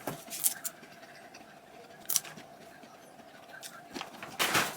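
Snack packaging being handled: a few light crinkles and clicks, then a louder rustle near the end.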